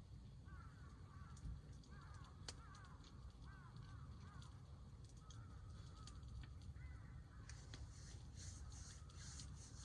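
Distant birds calling several times in short, rising-and-falling calls over a low rumble, with scattered sharp crackles from a wood campfire.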